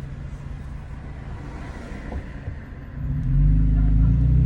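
Exhaust of a Toyota Tacoma TRD Pro's V6, fitted with an MBRP 3-inch cat-back, giving a low rumble while driving. About three seconds in it turns sharply louder under throttle.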